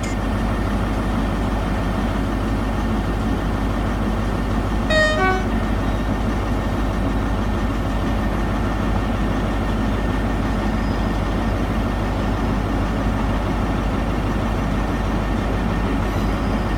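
Class 159 diesel multiple unit's underfloor diesel engines running loudly and steadily, with a short two-tone horn toot about five seconds in, a higher note then a lower one.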